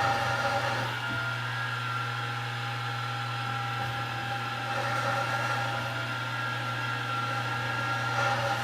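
Milling machine running steadily, its motor and spindle giving a constant hum with a higher steady whine.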